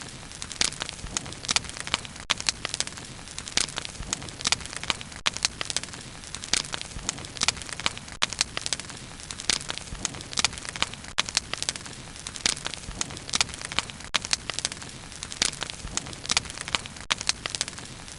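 Wood bonfire burning steadily, with a constant low rush and frequent irregular sharp crackles and pops.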